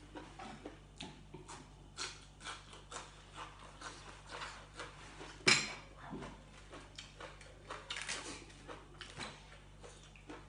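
Close-up eating sounds: chewing boiled pork ear, with short crunches and mouth clicks two or three times a second. One much louder sharp click comes about halfway through.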